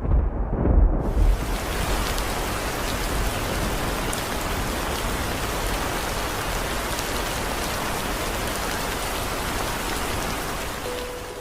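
Steady heavy rain falling, an even hiss, after a low rumble of thunder dies away in the first second.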